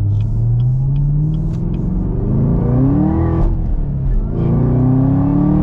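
Camaro ZL1's supercharged 6.2-litre V8, all stock, under full-throttle acceleration: the revs climb steadily, drop sharply at a gear change about three and a half seconds in, then climb again in the next gear until another shift at the end. Heard from inside the cabin.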